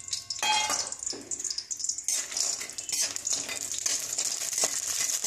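Bori (sun-dried lentil dumplings) frying in hot mustard oil in an aluminium kadai, sizzling, while a spatula stirs and scrapes them against the pan. The sizzle grows stronger about two seconds in.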